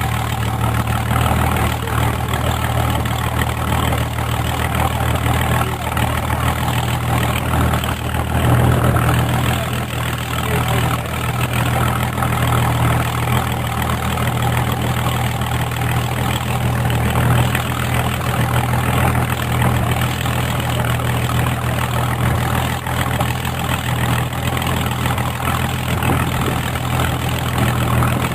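Hawker Hurricane's Rolls-Royce Merlin V12 engine idling steadily on the ground after start-up.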